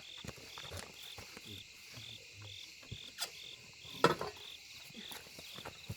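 A cricket chirping steadily, about two short chirps a second, with scattered knocks and one sharp knock about four seconds in.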